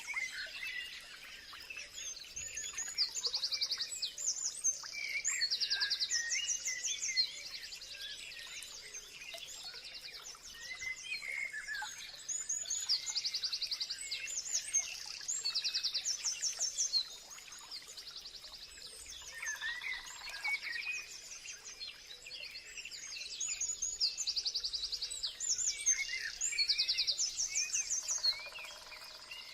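Several birds singing, with short, fast, high-pitched trills repeated every second or two and scattered lower chirps between them.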